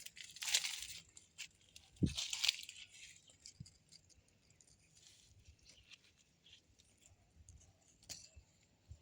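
Two short bursts of rustling, crackling noise, about half a second and two seconds in, with a dull thump at the second; after that only faint scattered rustles and ticks.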